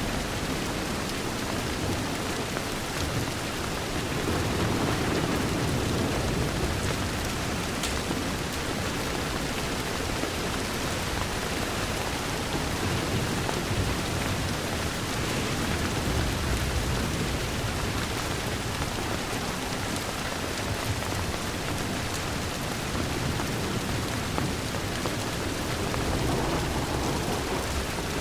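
Steady rain pattering on a window, an even dense hiss, with a deeper low rumble swelling up a couple of times.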